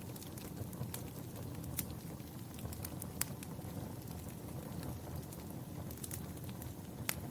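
Wood fire crackling in a fireplace: a steady low rustle of burning logs with a few sharp pops, the clearest about two, three and seven seconds in.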